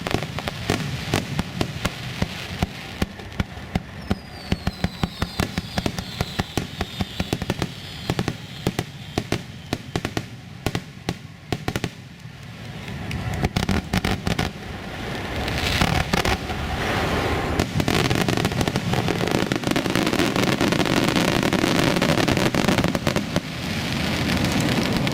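Fireworks display: rapid crackling and popping from star shells, with a falling whistle about four seconds in. Past the halfway point it swells into a louder, continuous crackle of many bursts at once.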